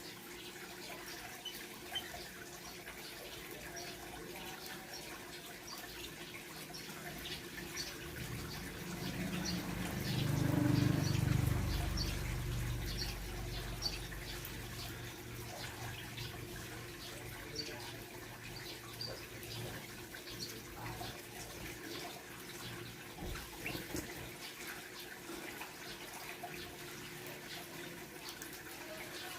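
Small birds in a mixed aviary chirping in many short, scattered calls over a steady hiss, with a low rumble swelling up about a third of the way through and fading a few seconds later.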